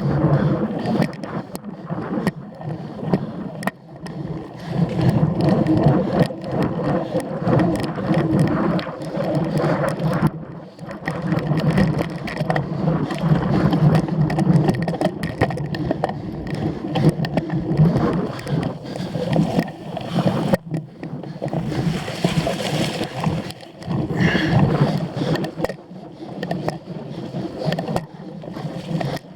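Cyclocross bike ridden hard over rough off-road ground: a steady rumble of knobby tyres with the bike rattling and knocking throughout. About two-thirds of the way in, a brief hiss joins it.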